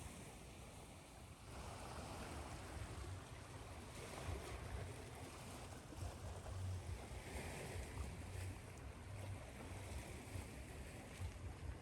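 Ocean surf: waves washing in and breaking in slow swells every few seconds, with a low rumble underneath, mixed with steady white noise.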